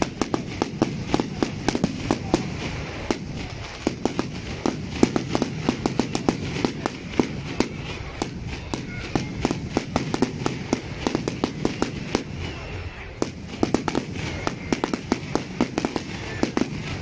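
Fireworks display: a rapid, irregular run of sharp bangs and crackles, several a second, going on without a break.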